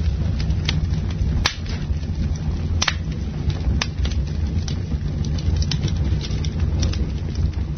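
Wood fire crackling, with irregular sharp pops and snaps. A few louder pops come in the first half, over a steady low rumble.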